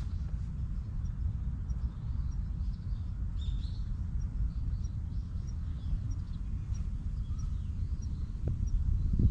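Small birds chirping, with a short high note repeated about twice a second and a louder call about three and a half seconds in, over a steady low wind rumble on the microphone.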